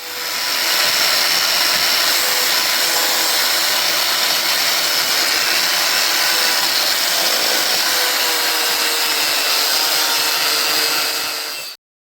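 A power tool running at a steady speed, a dense high hiss with a faint steady whine, starting and stopping abruptly.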